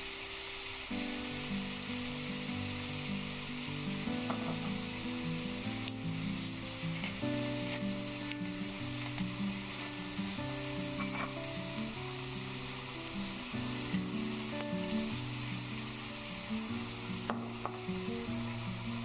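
Beef, mushrooms and bok choy sizzling as they stir-fry in a hot oiled wok, with a few sharp clicks of the spatula or spoon against the pan. Background music plays throughout.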